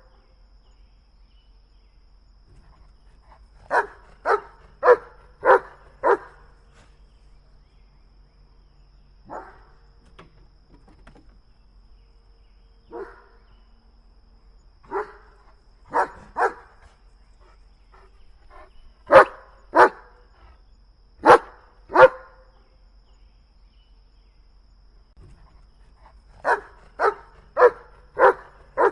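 A dog barking in bouts: a quick run of five barks, a few faint single barks, then three pairs, and another quick run of five near the end.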